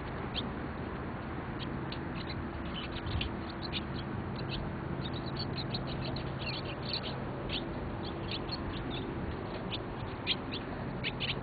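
Flock of small birds chirping: many short, high chirps scattered throughout, over a steady low hum.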